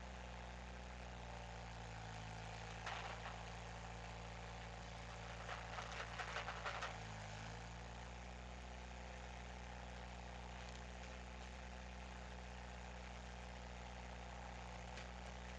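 Skid steer engine running at a steady speed, its pitch dipping briefly near the middle. A short clatter of knocks comes about three seconds in, and a longer run of knocks and cracks a few seconds later.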